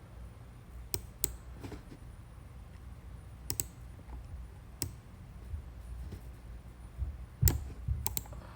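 Scattered clicks on a computer mouse and keyboard, about eight in all, with the loudest one about seven and a half seconds in.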